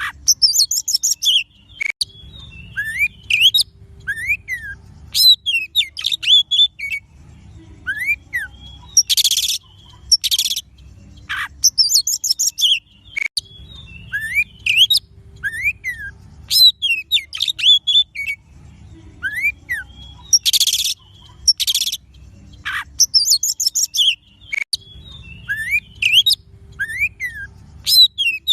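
Oriental magpie-robin song: quick whistled notes sweeping up and down, mixed with harsh scratchy bursts. The same phrase sequence repeats about every eleven seconds, as a looped lure recording for training a kacer to sing. A faint low hum lies underneath.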